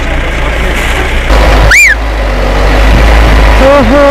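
Truck running under way with a loud, steady low rumble. About two seconds in a short pitched sound rises and falls, and near the end a held, voice-like tone comes in.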